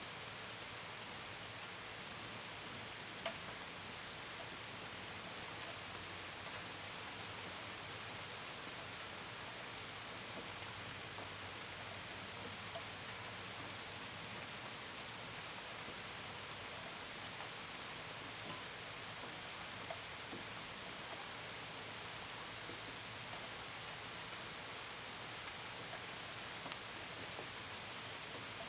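Steady gentle rain, with drops pattering on a window and gutters, and crickets chirping in a continuous pulsing high trill behind it. A couple of louder single drip clicks stand out, one about three seconds in and one near the end.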